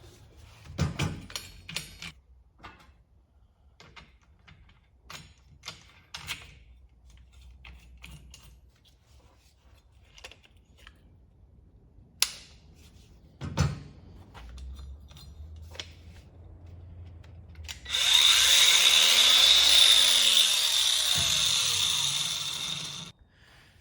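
Scattered clicks and knocks of metal parts being handled, then a power tool runs for about five seconds with a steady high whine, starting and stopping abruptly; it is the loudest sound.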